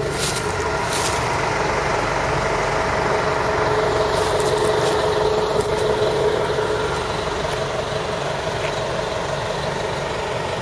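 A motor vehicle engine idling steadily, its hum swelling slightly about four seconds in and easing off again after about six.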